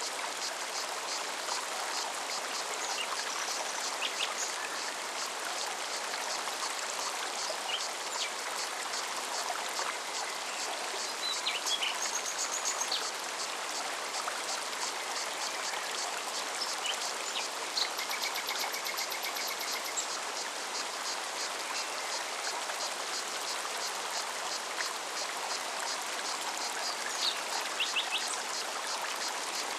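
Forest mountain stream running steadily over rocks. Above it a cicada sings in a fast, even pulsing rhythm, and a few birds give short calls, with a brief trill about two-thirds of the way through.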